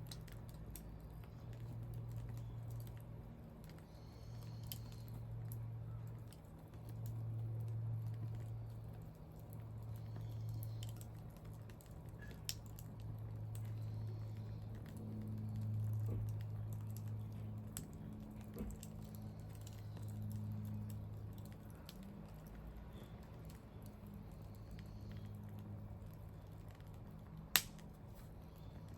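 Wood campfire crackling, with scattered small snaps and one sharper pop near the end.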